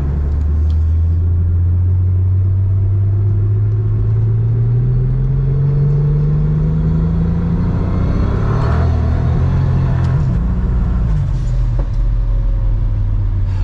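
Single-turbo BMW N54 inline-six accelerating hard under load in a test pull, its note rising steadily for about eight seconds, then dropping back about nine seconds in as the pull ends. This is the pull that threw misfires.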